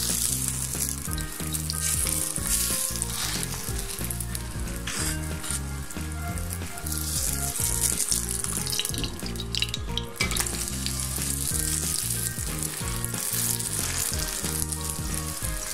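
Aloo paratha (potato-stuffed flatbread) sizzling steadily as it fries in a little oil in a pan on low heat.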